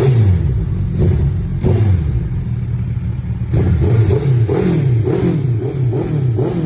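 Kawasaki Ninja H2's supercharged inline-four engine being revved over and over in short blips, the pitch dropping after each one.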